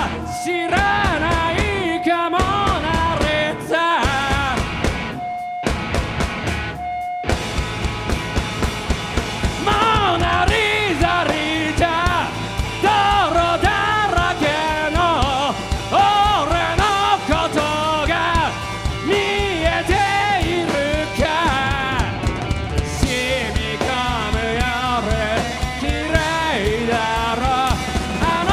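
Rock band playing live, with guitars, bass and drums. In the first seven seconds the band stops dead several times, then it plays on with a steady driving beat.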